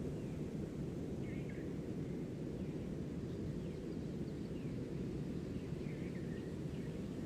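Nature ambience: a steady low rushing noise with faint, short bird chirps scattered throughout, several sliding downward in pitch.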